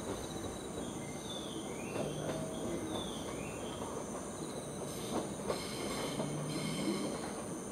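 Train running slowly over the rails with a low rumble, its wheels squealing faintly in short gliding tones during the first few seconds.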